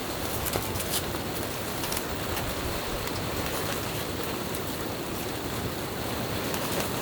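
Steady patter of precipitation falling on a tent, an even hiss with scattered sharp ticks of drops landing.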